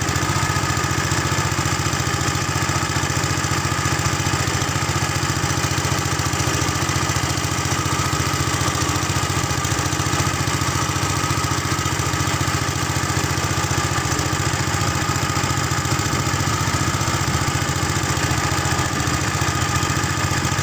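A small engine running steadily at an even speed close by, with a dense low firing beat and no change in pitch.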